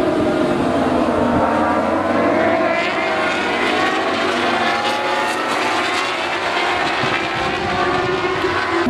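Several 1000 cc superbike engines racing at high revs at once, their pitches rising and falling and crossing over one another.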